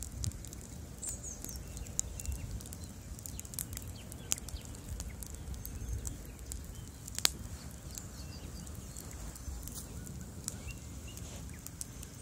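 Bonfire crackling: irregular sharp pops and snaps over a steady low rumble of the burning fire, with one louder pop a little past halfway.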